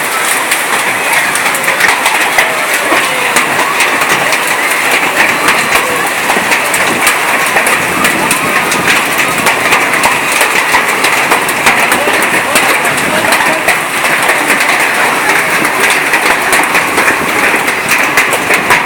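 Heavy rain falling, a loud, steady, dense patter of drops.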